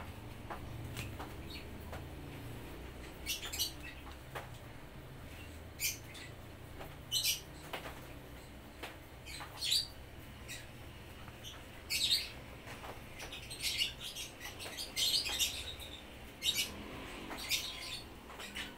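Small birds chirping outside: short, high-pitched chirps at irregular intervals, sometimes a few in quick succession, over a faint low hum.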